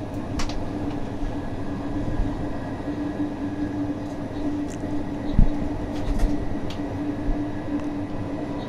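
Electric passenger train running at speed, heard from the locomotive cab: a steady rumble of wheels on rail with a constant humming tone, a few light clicks, and a single knock about five seconds in.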